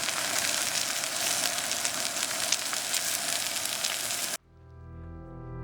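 Food sizzling as it fries, a steady crackling hiss that cuts off abruptly about four seconds in. Music with sustained low notes then fades in.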